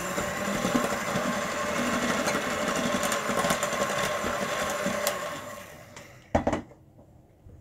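Electric kitchen mixer running steadily while flour is worked into a stiff butter-and-sugar cake batter, then winding down and stopping about six seconds in, followed by a single knock.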